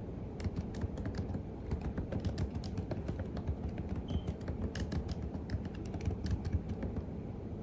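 Computer keyboard typing: quick, irregular keystroke clicks that stop shortly before the end, over a steady low background rumble.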